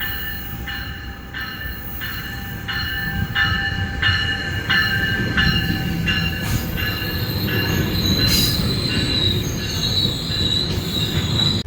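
GO Transit commuter train moving along the rails with a low rumble and high wheel squeal. For the first half the squeal swells in a regular pulse about every two-thirds of a second, then it settles into a steadier high squeal.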